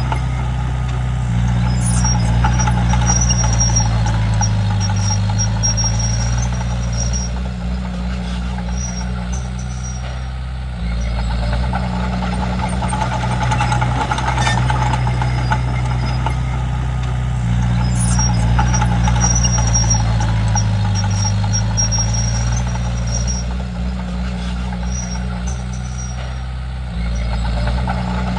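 Komatsu D31P bulldozer's diesel engine running steadily while the dozer works, its note and loudness rising and falling every several seconds.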